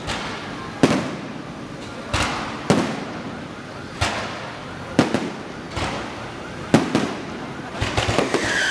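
Truck-mounted electronic fireworks going off: sharp single bangs at uneven intervals of about a second, then a quick run of cracks near the end and a falling whistle that starts just as it ends.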